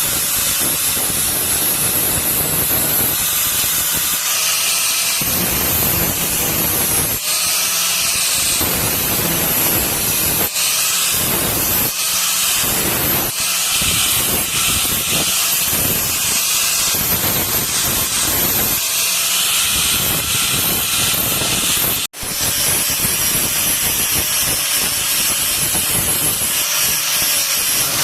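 Power grinder grinding a steel sickle blade: a continuous loud, hissing grind that swells and eases as the blade is pressed to the wheel, with one sudden brief dropout about two-thirds through.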